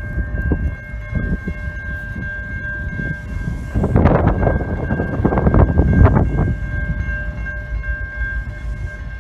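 A steady, high-pitched railroad warning sound as a train approaches the grade crossing, over heavy wind rumble on the microphone that gusts loudest about four to six seconds in.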